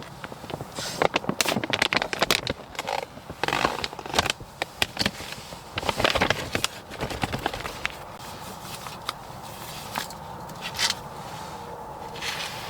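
Handling noise: rapid crackling, clicking and scraping of objects being handled, thinning out after about eight seconds into a faint steady hum with a few isolated clicks.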